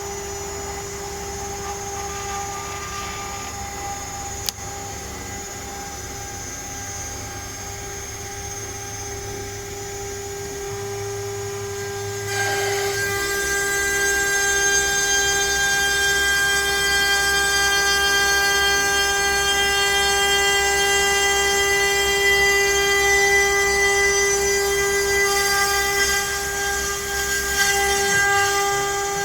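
CNC router spindle running at a steady high whine. About twelve seconds in it grows louder, with a many-toned whine and hiss as the bit cuts into pine, which continues.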